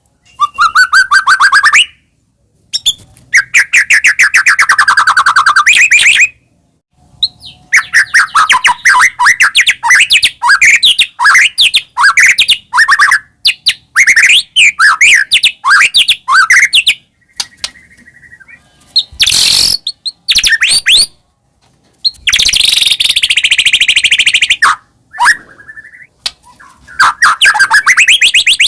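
White-rumped shama singing loud, fast phrases of repeated sweeping and trilled notes, with short pauses between the phrases.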